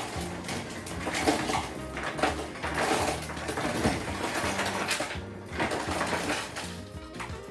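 Ice cubes clattering and rattling into a container from a refrigerator's door ice dispenser, a busy stream of hard knocks that eases off after about five seconds.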